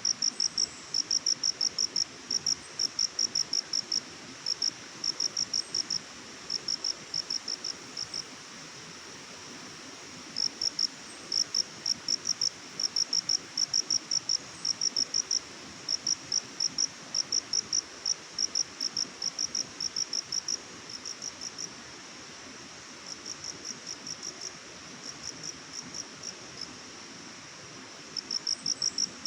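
A cricket chirping: short high pulsed chirps repeated about twice a second, pausing briefly a few times, over a faint steady hiss of background ambience.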